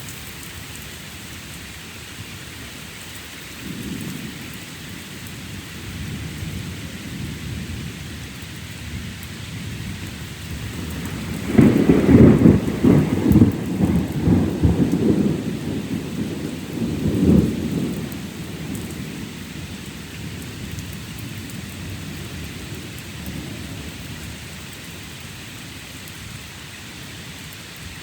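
Steady rain with thunder. A faint rumble comes a few seconds in, then a loud peal of thunder breaks sharply just before halfway, cracking and rumbling for about six seconds before it fades back into the rain.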